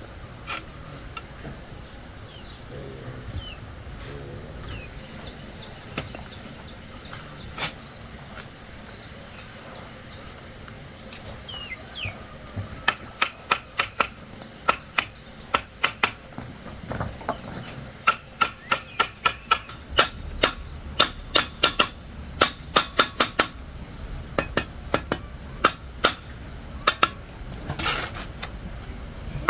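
Hammer blows landing in quick runs, about two a second, starting about halfway through and stopping shortly before the end, over a steady high buzz of insects.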